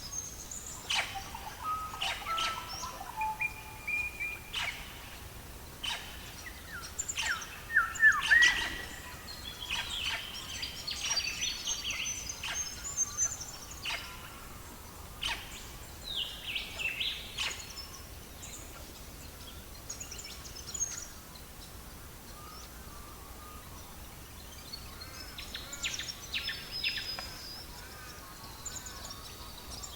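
Wood fire crackling with sharp pops and clicks, mixed with songbirds chirping and warbling. The loudest bird phrase comes about eight seconds in, and the bird calls thin out past the middle.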